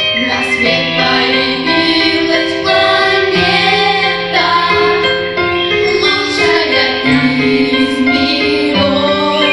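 A vocal group singing a song together, with long held notes that change pitch every second or so.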